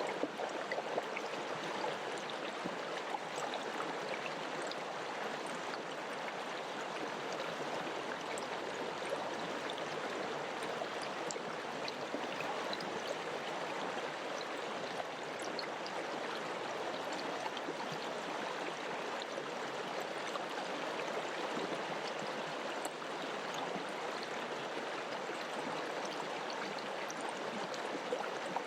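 River water flowing and rushing steadily, with small splashes and gurgles through it.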